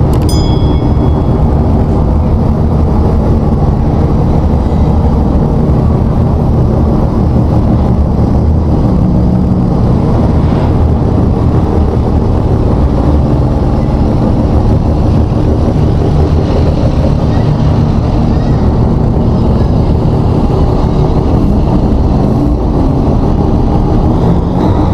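Mazda RX-3's 12A twin-rotor rotary engine idling steadily, its exhaust note loud and even.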